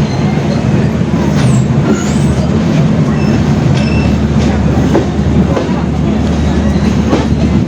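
Passenger train running, heard from inside the carriage: a loud, steady rumble and rattle, with a few sharp knocks of the wheels over the rail joints.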